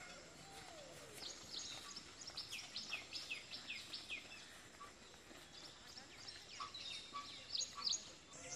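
Small birds chirping: many short, quick falling chirps in a loose series, faint over a quiet outdoor background.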